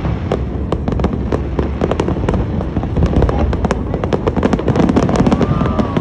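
Fireworks display: a dense run of sharp cracks and pops, several a second, over a continuous low rumble of bursts.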